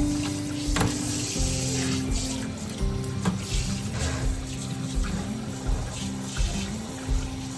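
Water running from a tap into a sink, with a few sharp knocks of things being handled in it, over background music.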